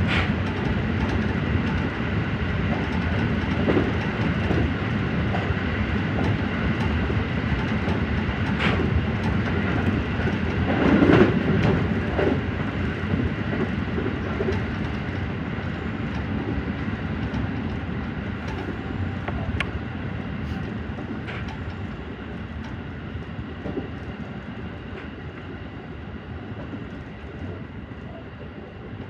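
JR Central 313-series electric train running on the rails, heard from inside the train: a steady rumble with occasional sharp clicks of wheels over rail joints or points. It gets gradually quieter toward the end.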